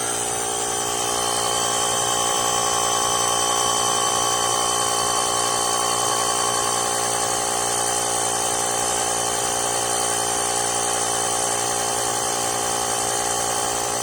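Tyre-inflator air compressor of a VTOMAN X7 jump starter running steadily as it pumps up a car tyre: a continuous whine with many overtones.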